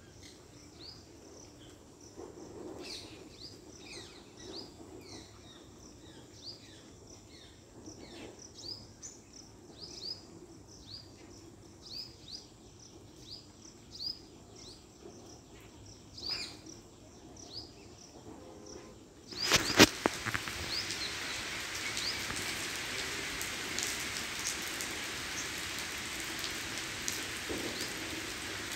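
Diced potatoes and aubergine frying in oil in a kadhai. The sizzle is faint at first under light stirring, then about two-thirds through a clatter is followed by a steady, louder sizzling hiss.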